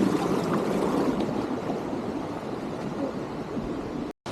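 Waterfall's water rushing steadily, an even noise with no break in it except a brief cut-out near the end.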